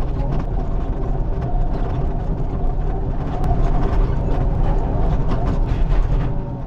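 Excavator's diesel engine running under load with scattered knocks as the I-beam blade is pulled through a ditch.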